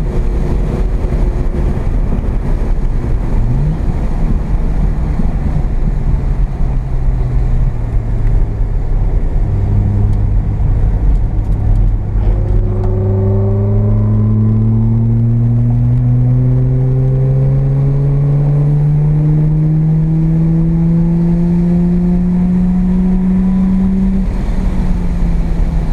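Mazda RX-7 FB's carbureted 12A rotary engine heard from inside the cabin. Its pitch drops as the throttle comes off at the start, then rises steadily for about fifteen seconds as the car accelerates in one gear, and drops again near the end. A steady rush of road noise runs underneath.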